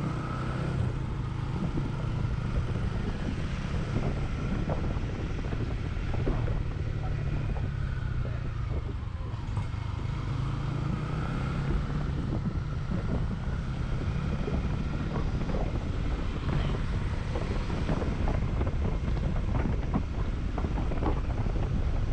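Honda CB150X single-cylinder engine running steadily while the motorcycle is ridden, its note rising and falling a little, with wind buffeting the helmet- or bike-mounted action camera's microphone.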